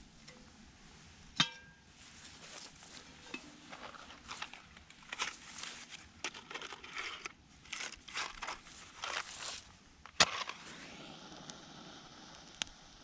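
A metallic clink that rings briefly, then irregular rustling and crunching, with a sharp crack near the end.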